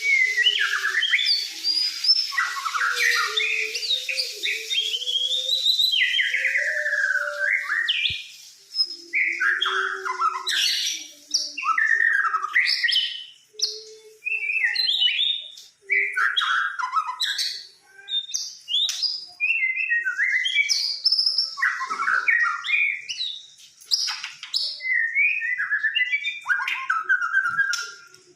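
White-rumped shama (murai batu) singing a long, varied song of whistled phrases that swoop up and down in pitch, with short pauses between phrases.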